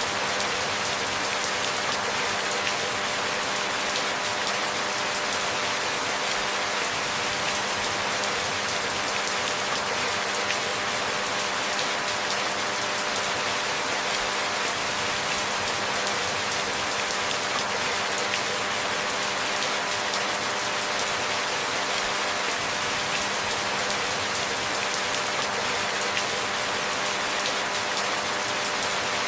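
Steady rain falling, an even, dense patter of drops with no breaks or thunder.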